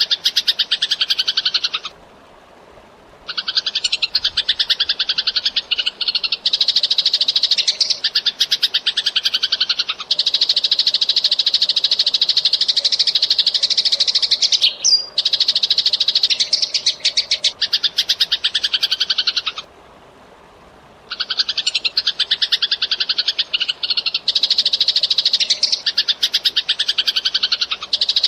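Eurasian tree sparrow chirping in a fast, dense, unbroken stream of rapid chirps, stopping briefly twice, about two seconds in and again around two-thirds of the way through. A short, sharp squeak cuts in near the middle.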